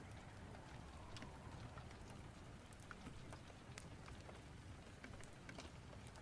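Faint steady rain with a low rumble underneath and scattered sharp ticks of drops.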